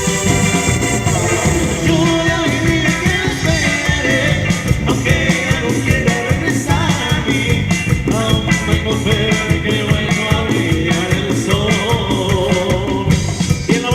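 A band playing an upbeat dance song, with a steady drum and bass beat under a sung melody.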